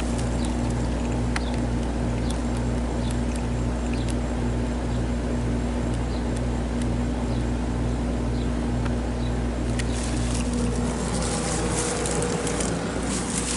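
Residential packaged air-conditioning unit running: a steady compressor hum with a pulsing drone beneath and the rush of its condenser fan. Near the end the low hum breaks up and a few light clicks come in.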